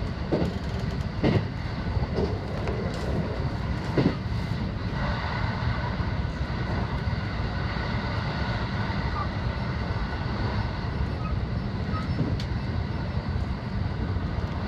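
Local electric train running along the line, heard from just behind the driver's cab: a steady low rumble of wheels on rail, with a few sharp clacks in the first four seconds and a faint steady whine joining about five seconds in.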